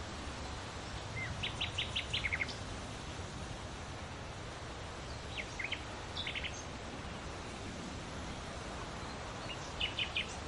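Forest songbirds chirping in three short bursts of quick high notes, over the steady hiss of a gentle breeze.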